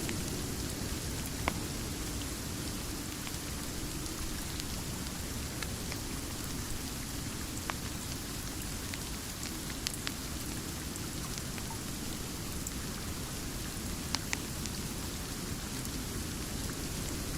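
Steady rain with a low rumble underneath. A few sharp pops from a crackling wood fire are scattered through it.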